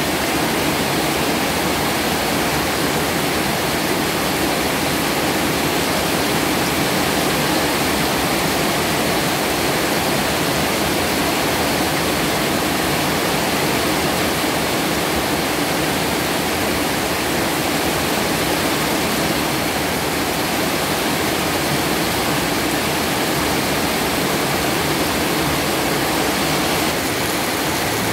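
Heavy rain pouring down: a steady, loud hiss that does not let up.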